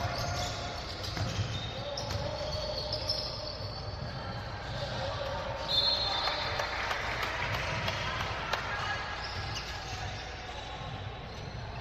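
Basketball game in a gym: a basketball bouncing repeatedly on the court amid a steady background of crowd and player voices, with a few short high squeaks about halfway through.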